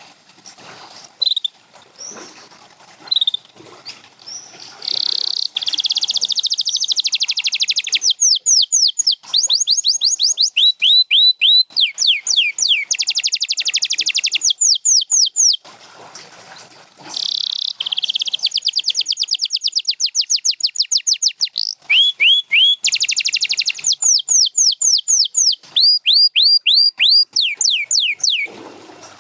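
Canary singing a long rolling song. Runs of quickly repeated high notes, each sweeping downward, alternate with fast buzzing trills, with a few scattered chips at the start and a short pause about halfway.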